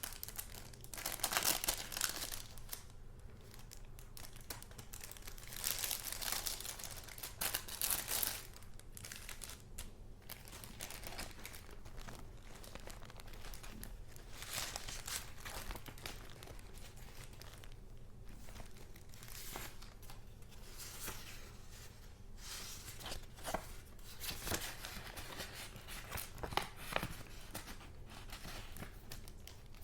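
Paper and paper goods being handled: rustling and crinkling in bursts, loudest a second or two in and again around six to eight seconds in, with a few light taps later on.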